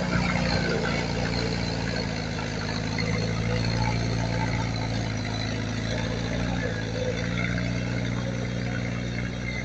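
Diesel engine of heavy earthmoving equipment running steadily at an even pitch.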